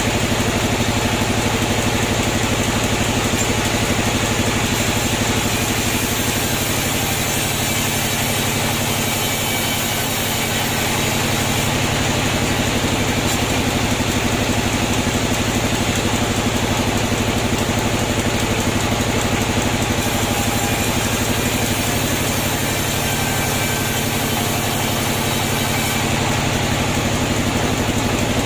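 Sawmill machinery running with a steady, loud motor drone that eases slightly twice.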